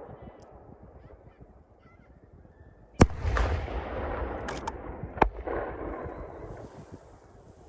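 Fireworks. After a quiet start, a shell bursts with a sharp bang about three seconds in and leaves a long rumbling echo. A smaller pop follows, then a second bang about two seconds after the first, and a faint high crackling hiss near the end.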